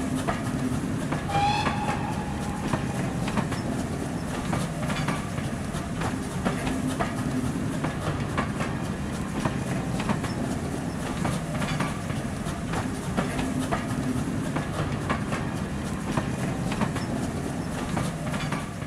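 A train running past, its wheels clicking over rail joints in a steady clickety-clack above a continuous rumble. A short high tone sounds about a second and a half in.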